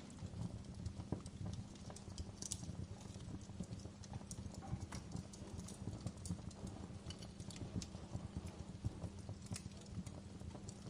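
Wood fire crackling in a fireplace: dense, irregular crackles over a low rumble, with a few sharper pops, one about two and a half seconds in and another near the end.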